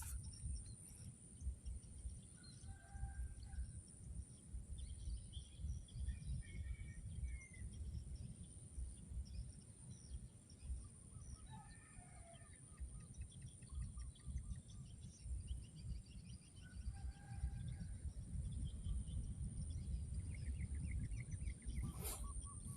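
Several wild birds chirping and calling in short scattered phrases over a low rumbling noise and a steady high-pitched tone. A single sharp click comes near the end.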